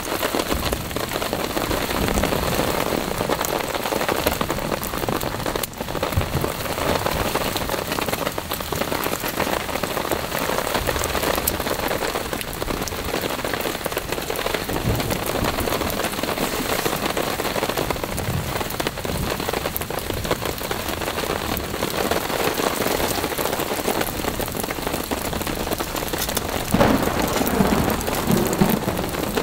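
Steady heavy rain falling on a tarp shelter.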